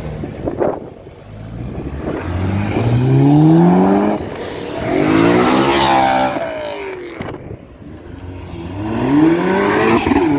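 Performance cars accelerating hard past one after another, their engines revving up in rising sweeps. The loudest comes about halfway through, as a red BMW M3 coupe pulls away.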